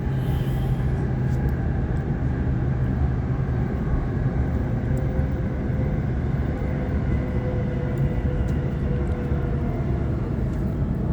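Sydney Trains Waratah electric multiple unit running steadily between stations: a continuous rumble of wheels on rails with a low hum and a faint steady whine, heard from inside the carriage.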